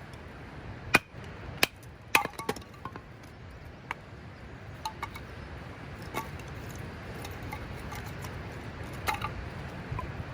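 Scattered sharp clinks and knocks of hard objects being handled and set down, the loudest cluster in the first two and a half seconds, over a steady low background rumble.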